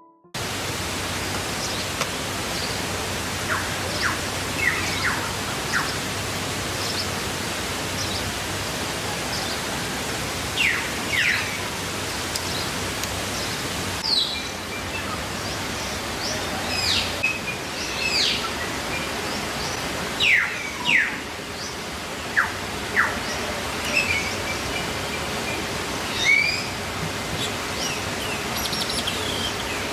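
Steady rush of flowing stream water, with birds giving short chirps every few seconds.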